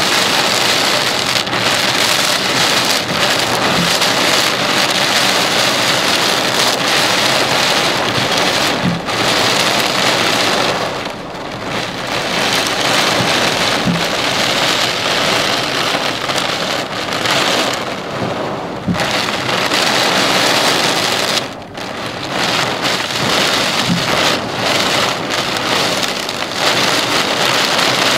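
Heavy thunderstorm rain pouring down steadily, easing off briefly a few times.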